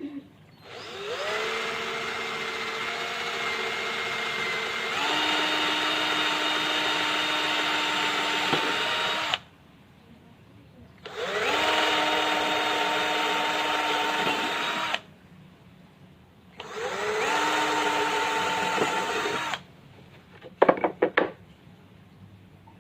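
Electric drill running in three bursts, spinning up at the start of each, with the first stepping up in speed partway through. A few sharp clicks follow near the end.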